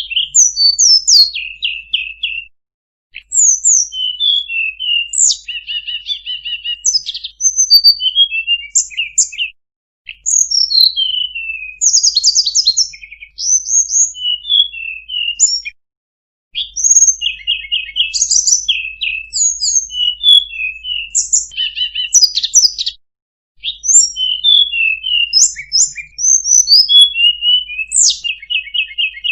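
Tledekan gunung singing its full song: fast, varied runs of high chirps, short trills and quick down-slurred whistles. The song comes in long phrases broken by a few brief pauses.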